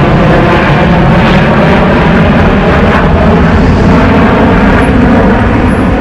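Jet airliner's engines running at takeoff power: a loud, steady rumble that is heaviest in the low end.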